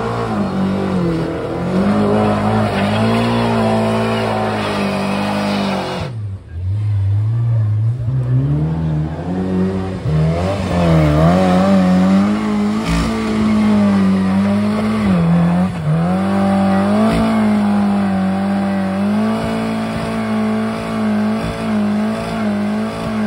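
Trials car engines revving hard under load on a steep muddy climb, the revs rising and falling as the wheels fight for grip. About six seconds in the sound cuts to a second car, a vintage open two-seater, whose engine rises in pitch and is then held at high revs with the revs wavering.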